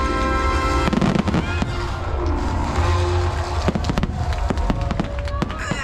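Fireworks going off, several sharp bangs over a low rumble, with the show's soundtrack music playing over loudspeakers.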